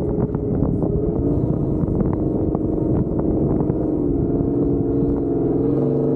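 Truck engine running under load on a dirt track, its pitch easing off and then climbing again, with scattered clicks and knocks over it.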